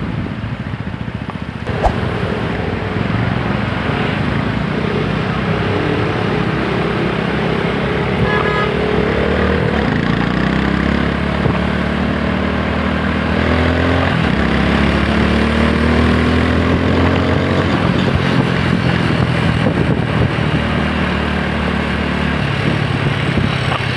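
TVS Apache 160 4V's single-cylinder engine pulling hard under acceleration, its pitch rising, dropping at a gear change a little past halfway, then rising again. A sharp click about two seconds in.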